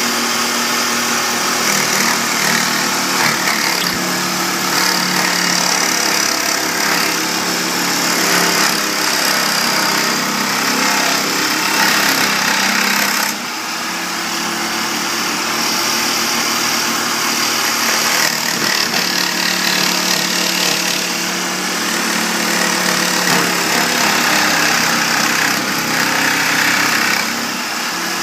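A machine running steadily, with a sudden drop in level about halfway through.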